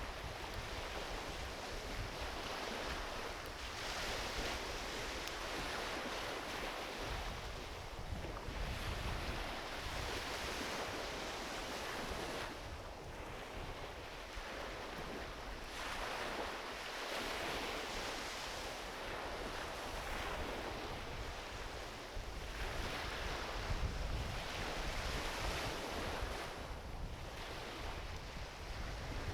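Small ocean waves washing onto a beach, the surf noise swelling and falling back every few seconds, with a low wind rumble on the microphone.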